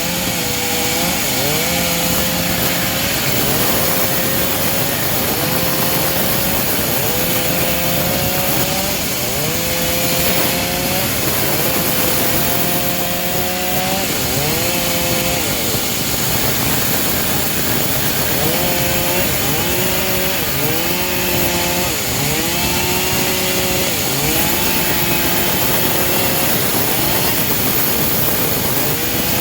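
Homemade engine-driven bandsaw sawmill cutting teak, the motor running loud and steady while its pitch repeatedly dips and climbs back every second or two under the changing load of the cut.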